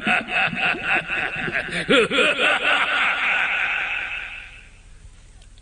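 A male cartoon character laughing mockingly in short, repeated bursts, over a steady rushing noise. The laugh and the noise fade out about four and a half seconds in.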